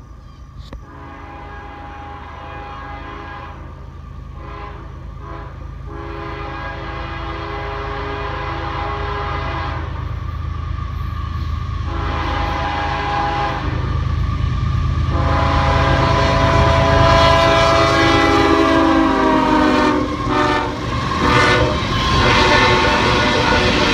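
Freight train locomotives approaching and passing, sounding a multi-note air horn in several blasts. The horn drops in pitch as the locomotives go by, while the diesel engine rumble grows steadily louder. Near the end the hopper cars clatter past on the rails.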